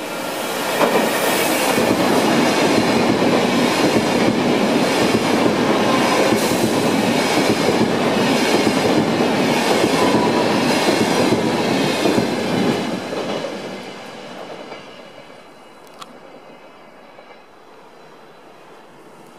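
SBB ETR 470 tilting electric train passing through at speed: a loud rush of wheels on rail with regular clicks of the wheels over rail joints. It fades away about two-thirds of the way through, leaving a quieter background and one sharp click near the end.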